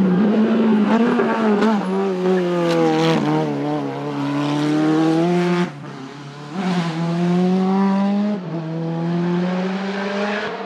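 Racing car engine under hard acceleration, its pitch climbing, broken twice by short drops, about six and eight and a half seconds in, as it changes gear.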